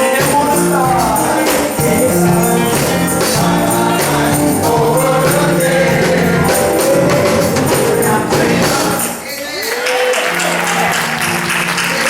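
Live gospel music: a male chorus singing over a band with a shaken tambourine. The music dips briefly about nine seconds in, then picks up again.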